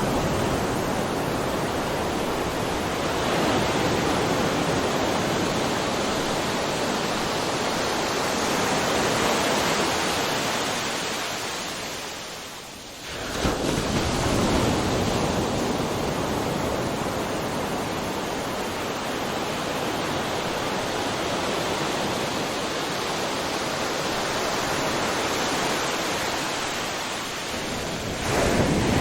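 Ocean surf, waves breaking and washing in a continuous rushing noise. About halfway through it eases into a brief lull, then a new wave breaks and the rush builds again, with another swell near the end.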